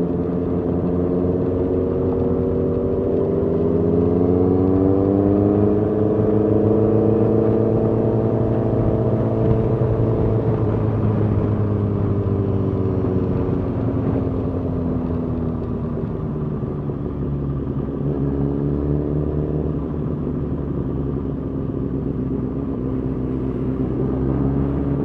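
Suzuki GSX-R 1000 inline-four engine running at parade pace. Its pitch rises gently over a few seconds, holds, then eases back down about halfway through, over a steady low rumble.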